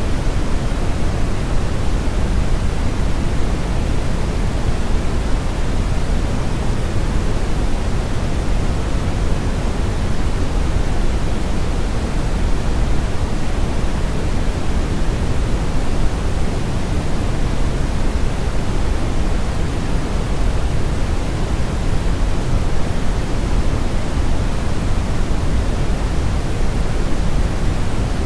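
Steady brown noise: a constant, even rumbling hiss, strongest in the bass and falling away toward the treble, with no changes.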